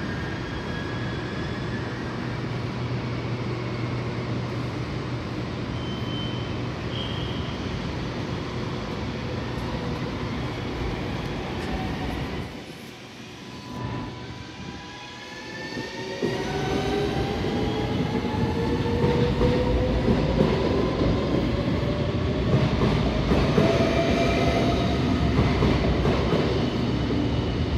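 NS VIRM double-decker electric train pulling out: a steady hum at first, then, after a brief quieter spell about halfway through, the motors' whine rises in pitch and the running noise grows louder as it speeds up past.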